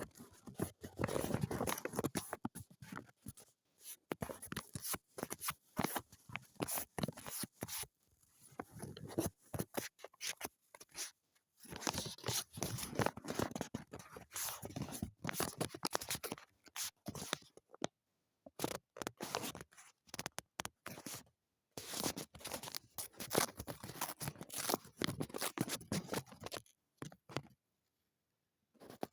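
Paper being cut with scissors and handled: runs of crisp snipping and paper rustling, broken by short pauses.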